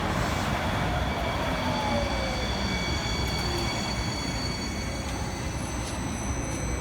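One-car VTA light rail train pulling in at the platform: a steady running rumble and hiss with an electric whine that falls in pitch as it slows, and high thin whines above.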